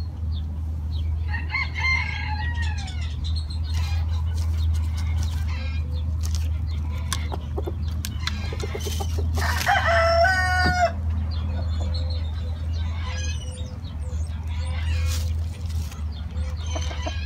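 Chickens calling, with one loud rooster crow about ten seconds in and shorter falling calls earlier. A steady low rumble runs underneath.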